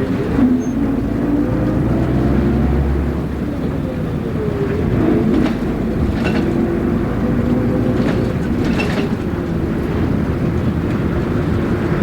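Interior running sound of a diesel city bus on the move: the engine and drivetrain note slowly rises and falls as it drives, over a steady road rumble, with a few short rattles from the body.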